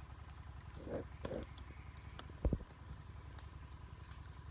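Steady high-pitched insect chorus, crickets or cicadas, running without a break, with a low rumble underneath and a short low thump about halfway through.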